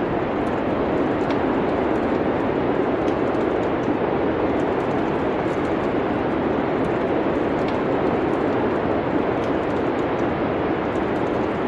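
Steady rushing wind of a winter snowstorm, with faint scattered crackles of a wood fire in a fireplace.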